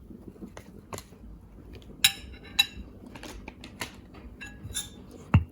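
Kitchen utensils and dishes clinking and knocking in scattered sharp strokes, with two loud ringing clinks about two seconds in and a dull thump near the end.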